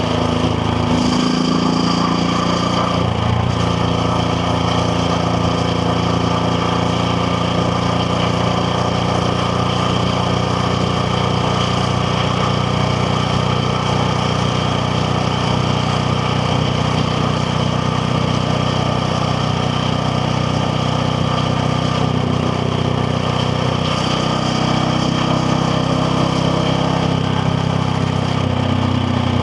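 KTM Duke 690R's single-cylinder engine running under way on the road. The note steps up and back down in the first few seconds, holds steady, then rises again near the end.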